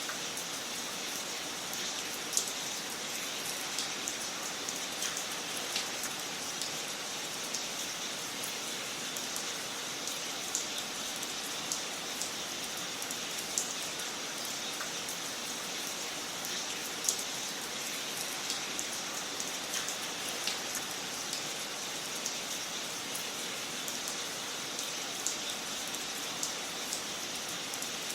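Wood fire crackling in a fireplace: a steady hiss with sharp pops and snaps at irregular intervals.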